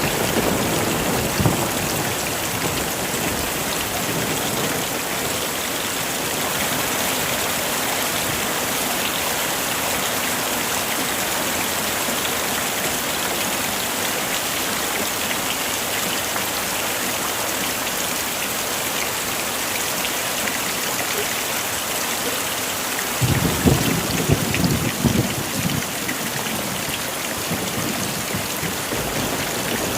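Heavy rain falling steadily. About three-quarters of the way through comes a deep roll of thunder lasting a few seconds.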